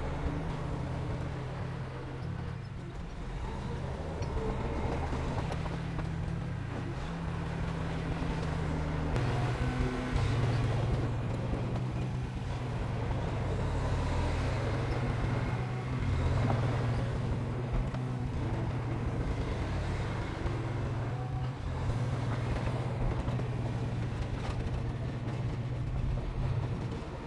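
Heavy diesel engine of earthmoving equipment running steadily; about nine seconds in its note rises and grows louder, as when the machine takes on more load or throttle, with faint clanking over the drone.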